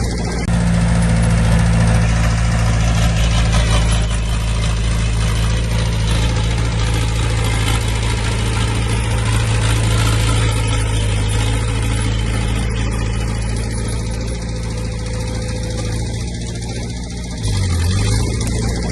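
Heavy diesel engine of an earthmoving machine (dump truck or bulldozer) running steadily with an even, deep engine note.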